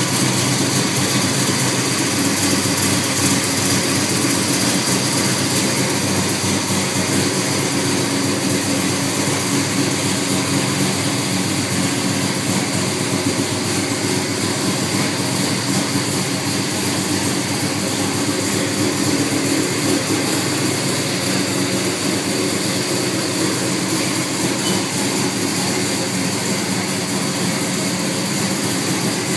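1969 Plymouth Road Runner's 440 Six Pack V8, three two-barrel carburettors, idling steadily, heard up close at the open engine bay.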